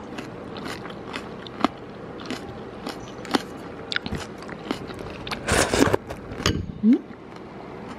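Close-up eating sounds: crunchy chewing and biting, likely of pickled Thai eggplant, with a spoon moving in a bowl of jute-leaf soup. A louder, noisier patch comes about five and a half seconds in.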